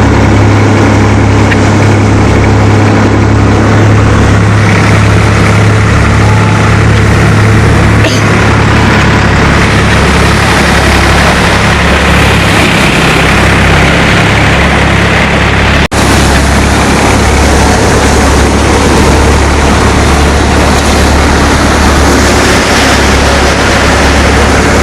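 Swaraj 960 FE tractor's three-cylinder diesel engine running steadily at about 1400 rpm, driving a large paddy thresher through the PTO. A steady engine drone is mixed with the thresher's noise, which grows fuller about eight seconds in.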